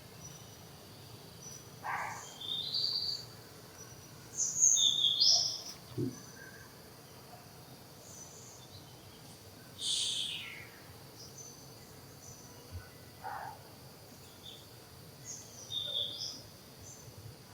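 Outdoor wildlife ambience: short, high bird chirps every few seconds over a steady, faint high insect drone, with the loudest chirps about five seconds in and again about ten seconds in.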